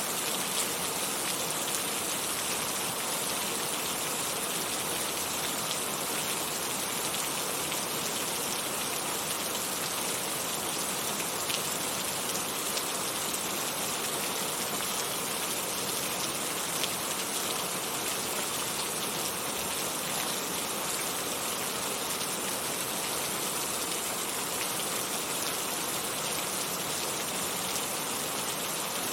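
Heavy rain falling steadily, an even dense hiss of drops with faint scattered ticks of individual drops hitting a surface.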